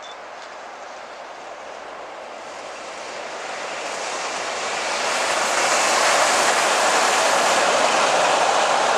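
Metre-gauge train, a GDe 4/4 electric locomotive hauling coaches, running past: the noise of its wheels on the rails grows steadily louder over the first five seconds or so as it approaches, then holds level as it passes close by.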